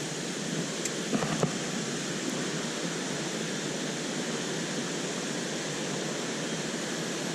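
Steady rush of a waterfall and river water, with a few small clicks a little over a second in.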